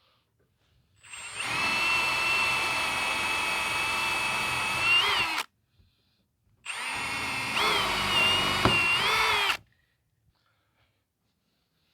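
Electric drill boring a hole into wood in two runs, about four seconds and then about three seconds, with a short stop between. The motor whine wavers in pitch as the bit loads up near the end of each run; the stop fits pulling the bit out of the hole to clear the wood chips.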